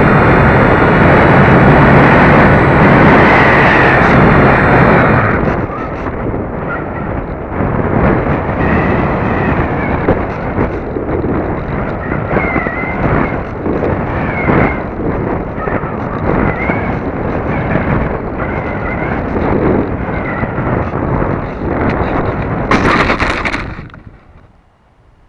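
Wind rushing over the small microphone of a keychain camera riding on an RC glider in flight. The rush is loudest for the first five seconds, then drops to a lower, gusty level, with a short, loud hiss near the end before it falls much quieter.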